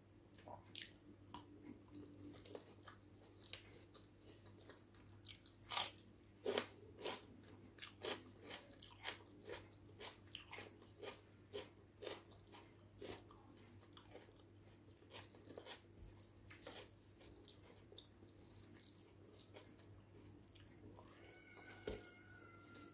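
Close-miked chewing of egg biryani, with irregular wet clicks and smacks from the mouth and the fingers in the rice. The loudest are a couple of sharp clicks about six seconds in.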